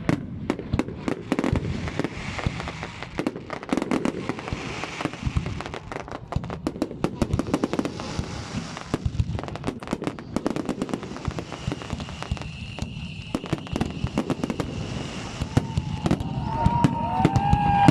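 Fireworks display in full swing: a rapid, dense run of bangs and crackling bursts, growing louder near the end.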